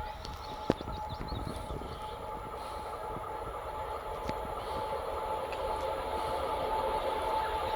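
Freight train approaching, its rumble and a steady high-pitched hum growing steadily louder, with a single sharp click about a second in.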